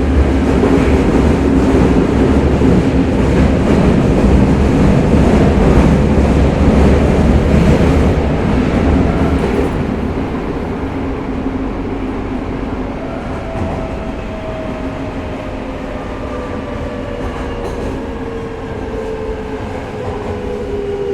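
Tokyo Metro 05 series subway car running in a tunnel, heard from inside: a loud rumble of wheels on rail with some clickety-clack, easing after about ten seconds. From about thirteen seconds in, a faint whine of the Mitsubishi IGBT-VVVF traction inverter and motors slowly falls in pitch as the train slows toward the next station.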